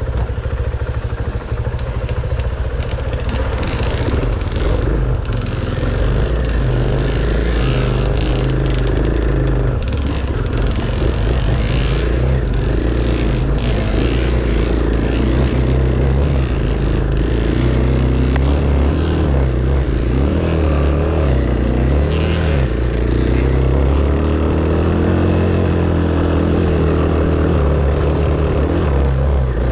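Dirt bike engine revving up and down continually as it is ridden on an enduro trail, with scattered knocks and clatter.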